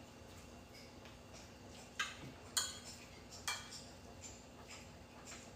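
A few scattered clinks of cutlery against dishes, three sharper ones in the middle and lighter taps after, over a faint quiet background.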